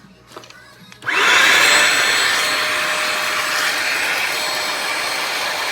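Bissell Symphony Pet steam mop's vacuum motor switched on about a second in and running with a steady high whine, working normally.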